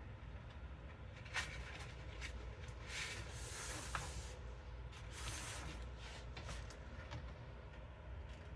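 Hands handling computer parts and cables: scattered light clicks and short rustles over a low steady hum.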